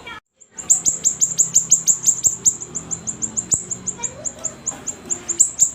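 Siri-siri bird singing a rapid, unbroken string of high, short chirps, each slurring quickly downward, about eight a second, with a brief break just after the start.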